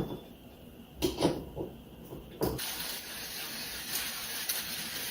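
A few knocks as the hand grinder is handled, then from about two and a half seconds in, the steady grinding noise of coffee beans being cranked through a manual ceramic-burr coffee grinder.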